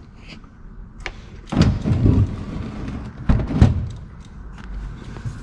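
Thumps and clatter of a loose replacement car door being handled and shifted, in two louder bursts: one about a second and a half in, the other just past three seconds.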